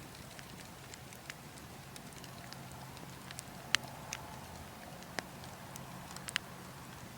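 Log fire crackling, with a dozen or so sharp pops scattered unevenly, the loudest a little after halfway, over a steady low rumble of wind.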